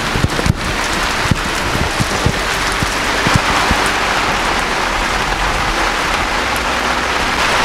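Rain falling on garden leaves and a trampoline's padded cover, a few sharp drop hits close by in the first two seconds, then a dense, even hiss that grows a little louder.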